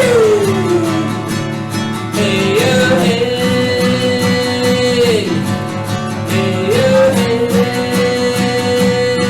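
Devotional song with acoustic guitar accompaniment. A voice sings long held notes without clear words, sliding up into a new note twice.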